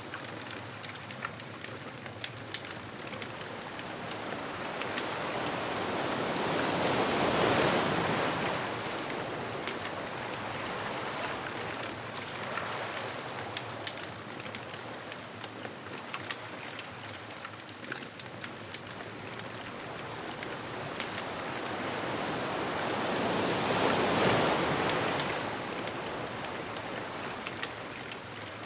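Ocean waves on a beach: two waves build and break, about 7 and 24 seconds in, over a steady wash of surf with a fine crackle throughout.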